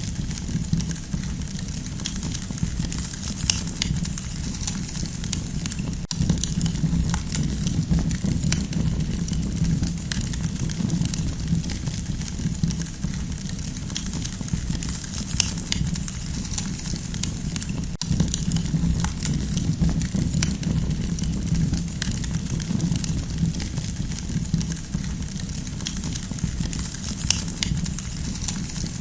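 Campfire burning steadily with a low rumble under it, and many small, irregular crackles and pops from the burning wood.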